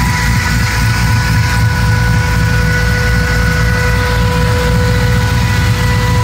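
LS-series V8 engine idling steadily in a 1963 GMC pickup, a low, even rumble with a steady high whine over it.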